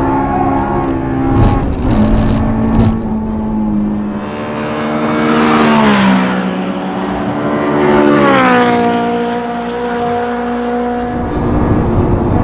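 Honda S2000's high-revving four-cylinder engine with a custom header and exhaust driving past at speed on a circuit: the engine note swells as it approaches and drops in pitch as it passes about six seconds in, with a second falling sweep about two seconds later.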